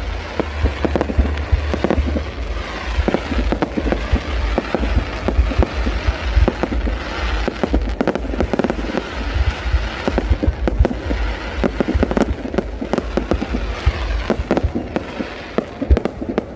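Fireworks display: a dense, continuous barrage of sharp bangs and crackles, several a second.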